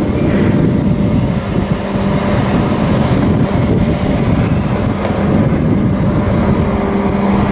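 Steady, loud drone of running engine machinery, with a steady low hum that comes in about two seconds in.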